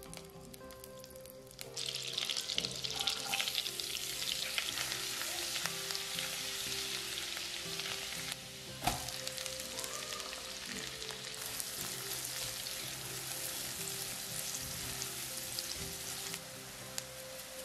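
Minced garlic sizzling in hot butter and oil in a nonstick pan as it is stirred; the sizzle starts loud about two seconds in and keeps going, with a short knock about nine seconds in.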